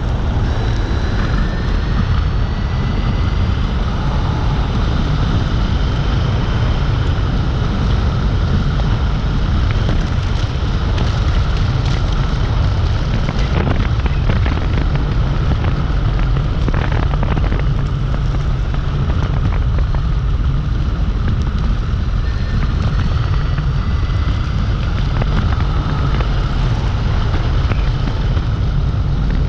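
A Dualtron Compact electric scooter being ridden: a steady low rumble of wind and road noise, with faint thin whines that glide slowly up and down in pitch and a few scattered clicks.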